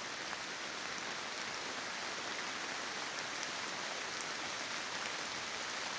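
Steady rain falling on forest leaves and undergrowth, an even hiss with scattered drop ticks.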